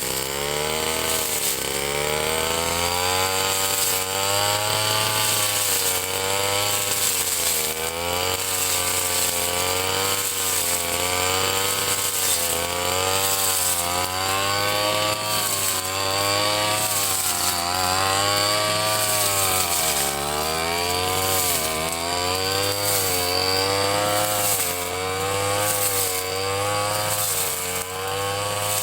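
A Ryu 30.5 cc two-stroke brush cutter running hard while cutting grass. The engine pitch dips and recovers every second or two as the blade bites into the grass and frees again.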